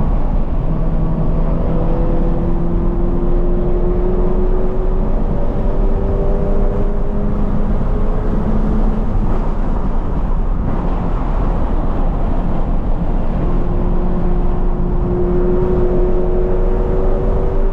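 2020 Toyota 86's flat-four engine with a Corsa cat-back exhaust, pulling hard with its pitch rising slowly for several seconds. Around the middle the engine note gives way to a rushing noise, then the engine pulls and rises again near the end.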